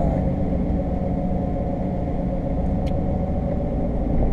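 A Jeep driving along a soft sand trail: a steady engine and drivetrain rumble with a faint steady whine above it, and one short tick about three seconds in.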